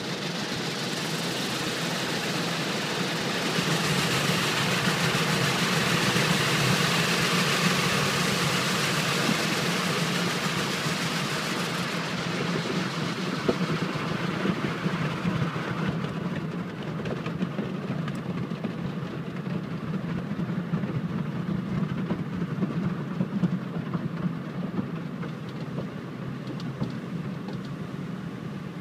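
Car wash machinery running: a steady low mechanical hum under a bright hiss that drops away in two steps, about twelve and sixteen seconds in.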